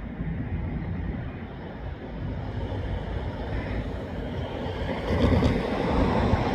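A car driving: steady engine and road noise, growing louder toward the end.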